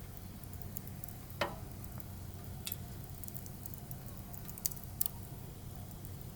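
Firewood burning, crackling with four sharp pops over a low steady rumble; the loudest pop comes about a second and a half in.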